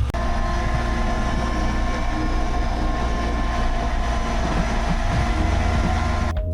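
Tractor engine running steadily while plowing snow. It cuts off abruptly near the end.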